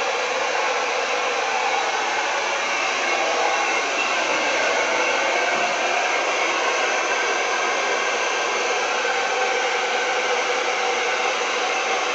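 Handheld blow dryer running steadily, an even airy rush that holds without change.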